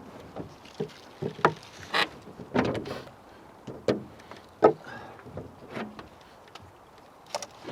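Small boat knocking and bumping against a post and gear as it is worked on in the water: irregular hollow knocks, the sharpest a little past halfway, with a longer rushing stretch about three seconds in.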